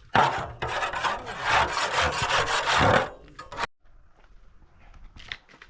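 A hand tool scraping on wood in rough, repeated strokes, stopping abruptly about three and a half seconds in.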